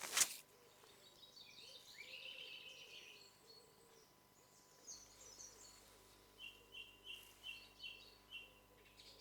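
Woodland birds singing and calling faintly, with a run of about seven quick repeated chirps near the end. A single sharp click just after the start is the loudest sound.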